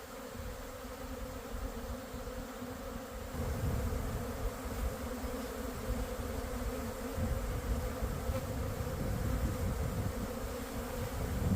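Honeybees buzzing in a steady, continuous hum. A low rumble grows stronger about three seconds in.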